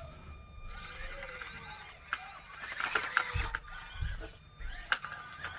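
Axial SCX24 micro RC crawler's small electric motor and gears whining, the pitch rising and falling in short spurts as it is driven over the course, with a few low knocks about three and a half and four seconds in.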